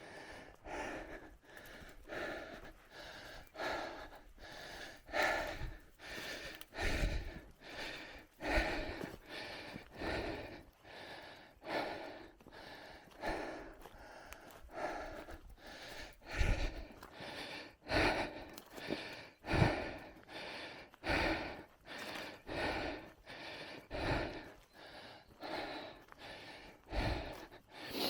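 A cyclist breathing hard and rhythmically while riding, with short panting breaths coming a little more than once a second. Occasional low thumps sound under the breathing.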